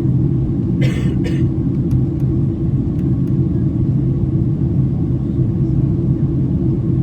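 Steady low rumble of a Boeing 767-300's jet engines and airflow heard inside the passenger cabin during the climb after take-off. Two brief sharp noises sound about a second in.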